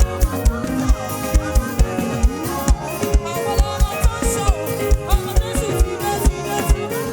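Live gospel praise band playing an upbeat African-style groove, with a steady driving kick drum under sustained pitched instruments.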